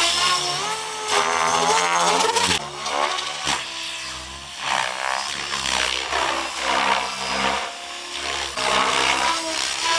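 Electric RC helicopter (Soxos 700) motor and rotor whine in flight. The pitch glides up and down, and the sound changes abruptly every second or two.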